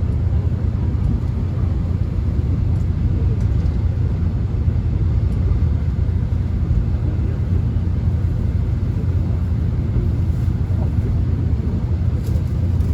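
Steady low rumble of a subway train running along the track, heard from inside the car, with a few faint ticks.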